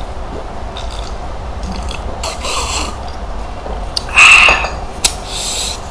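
Crunching and crackling of shrimp shells as the shrimp are eaten, in three bursts, the loudest about four seconds in.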